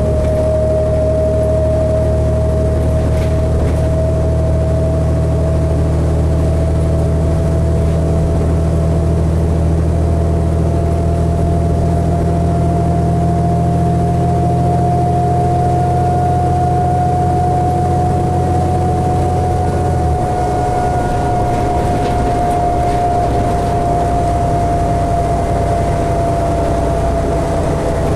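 Cabin sound of a 2012 New Flyer D60LFR articulated diesel bus under way: a steady low engine hum with a clear whine that slowly rises in pitch and then eases back. About twenty seconds in, the low engine hum drops off while the whine carries on.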